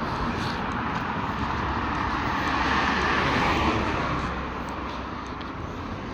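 A car passing on the road: tyre and engine noise that swells to a peak about three and a half seconds in and then fades away.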